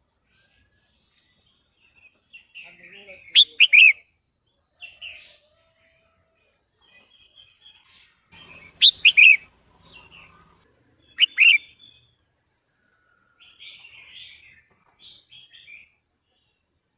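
Female red-whiskered bulbul calling: three loud, sharp calls a few seconds apart, with softer chattering notes between them.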